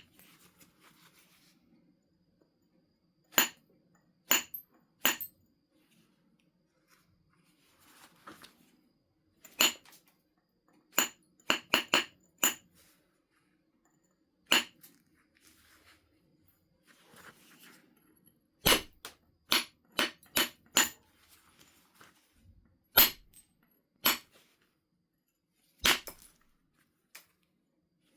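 Percussion flaking of a large flint nodule toward a biface: sharp, clicking strikes of a knapping billet on the stone. Single blows fall a few seconds apart, with a few quick runs of several blows.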